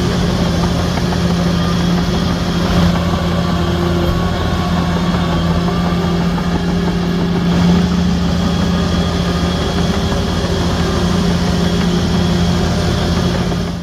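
Diesel engine of a Shantui DH17C3 bulldozer running steadily, with two brief swells in level.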